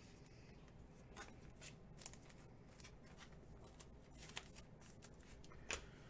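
Near silence with a few faint rustles and soft ticks, the clearest one near the end: baseball trading cards being handled.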